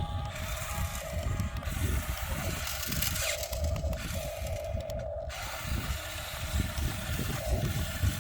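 A 1550 RC model excavator's electric gear motors running with a steady whine and mechanical rattling as it works.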